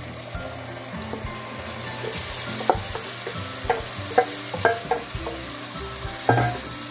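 Yogurt-marinated vegetables sizzling as they are tipped into hot oil and onion masala in a kadhai. In the second half a wooden spatula stirs them, with a few sharp knocks against the pan.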